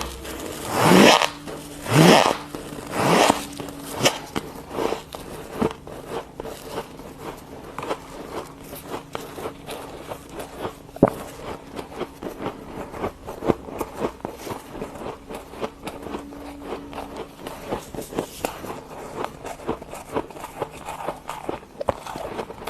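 Freezer frost being scraped off in a few loud sweeping strokes, then dense squeaky, crackly crunching as the powdery frost is bitten and chewed, over a faint steady low hum.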